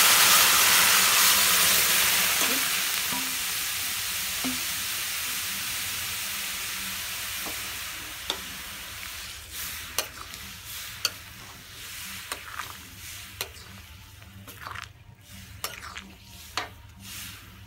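Boiled chana dal and pumpkin greens hitting hot spiced oil in a karahi: a loud sizzle that dies down steadily over several seconds as the added liquid cools the oil. A metal spatula stirs through it, clicking against the pan a number of times in the second half.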